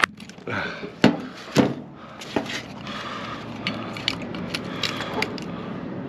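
Knocks and clicks of a scrap microwave oven's transformer and metal parts being handled while it is checked for copper windings: four sharp knocks in the first two and a half seconds, then lighter ticks.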